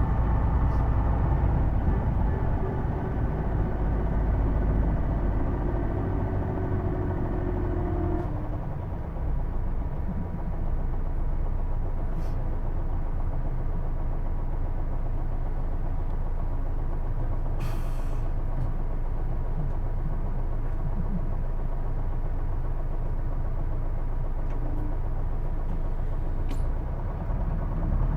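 Hino Blue Ribbon II city bus heard from inside: diesel engine and drivetrain running with a distinctive whine, which the uploader takes for a transmission sound like an automatic's. The tones fade about eight seconds in, leaving a steady low rumble with a few clicks, and a rising whine begins near the end.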